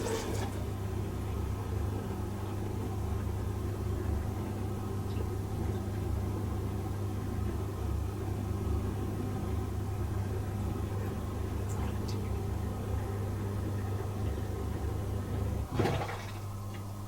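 Bosch Serie 4 SMS46MW05G dishwasher running mid-cycle: a steady low pump hum with rumbling water sloshing inside the tub. About sixteen seconds in, a short swish and the sound drops to a quieter hum.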